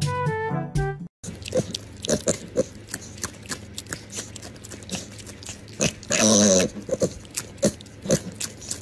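Brass music cuts off about a second in. Then a piglet makes many small wet mouth clicks and smacks, as if chewing or licking its lips, and gives one short squeal about six seconds in.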